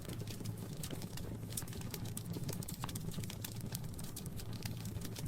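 Wood fire crackling in a fireplace: irregular sharp snaps and pops, several a second, over a low steady rumble of the flames.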